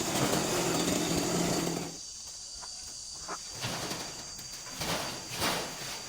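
A small petrol engine runs steadily, then cuts out about two seconds in. After that, insects buzz steadily, and there are a few short rustles of movement through vegetation.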